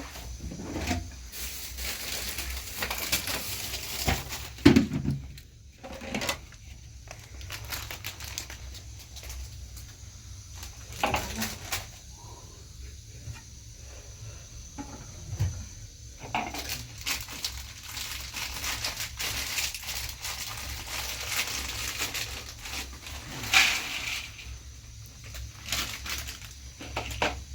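Intermittent knocks, clatters and rustling of things being handled, with a louder knock about five seconds in and another near the end.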